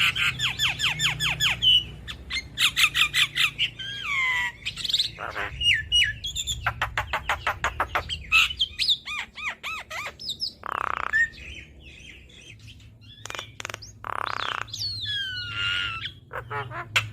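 Javan myna singing a varied chattering song: fast runs of repeated whistled notes, downward-sliding whistles and harsh squawks, with a quieter stretch in the middle.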